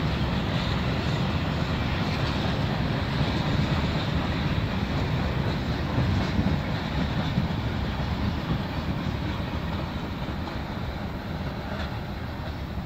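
Freight train cars rolling past on the rails: a steady rumble that slowly fades as the last cars go by.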